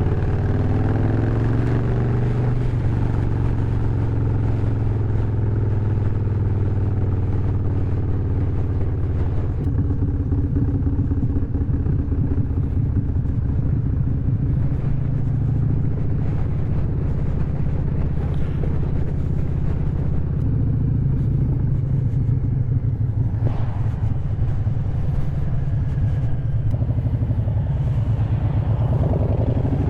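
Harley-Davidson V-twin motorcycle running under way, its exhaust note steady and low. The engine note steps to a new pitch about ten seconds in and again about twenty seconds in, and sweeps near the end.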